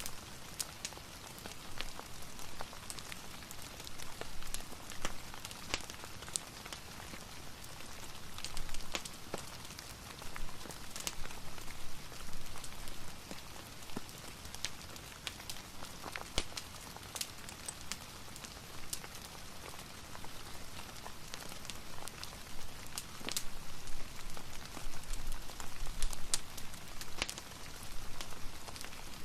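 A rain and fireplace ambience: steady rain hiss with irregular sharp clicks and crackles scattered through it.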